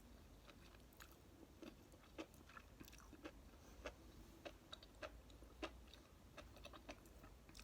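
Faint chewing: a person eating noodles, with soft, irregular wet mouth clicks every second or so.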